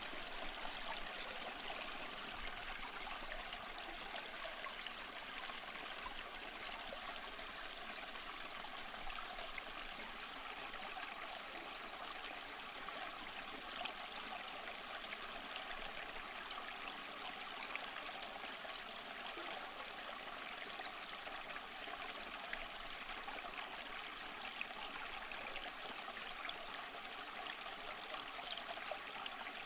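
Waterfall: water rushing steadily, an even hiss with little low rumble and no change throughout.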